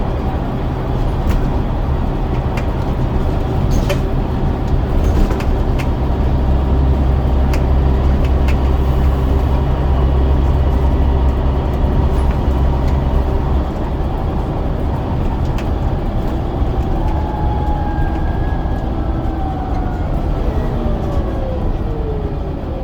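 Scania DC9 9-litre diesel engine of a double-decker bus running under way, with rattling clicks. Its deep drone is heavy for the first half and eases off about two-thirds of the way in. Near the end a whine falls steadily in pitch as the bus slows.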